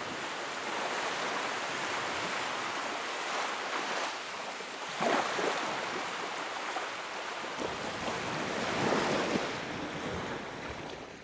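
Sea waves in a steady rushing hiss, with two louder surges about five and nine seconds in, fading out at the end.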